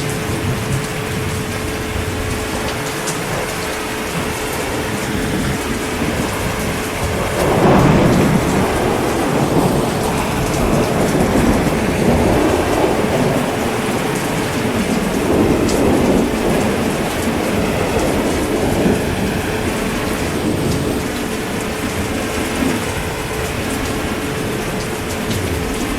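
Steady heavy rain with thunder: a low rumble swells up about seven seconds in and rolls on in waves through the middle.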